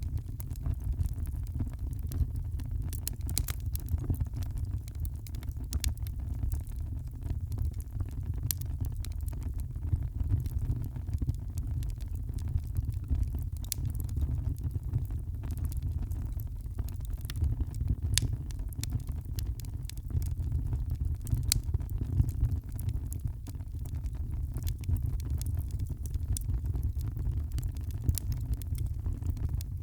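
Wood fire crackling in a fireplace: many small, sharp pops and snaps scattered irregularly over a steady low rumble.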